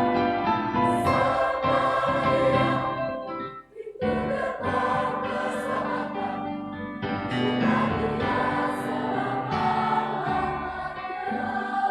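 Choir singing a hymn in held chords, with a brief break between phrases about three and a half seconds in.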